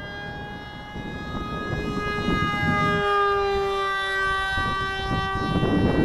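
Motor and propeller of a large RC paper airplane whining in flight, its pitch drifting up and down slowly and getting louder from about a second in, over low wind rumble.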